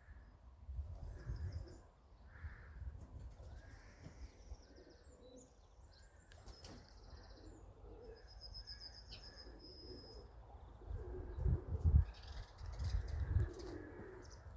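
Outdoor birdsong: pigeons cooing while small birds chirp and trill in short high phrases. Low rumbling noise on the microphone swells in the last few seconds.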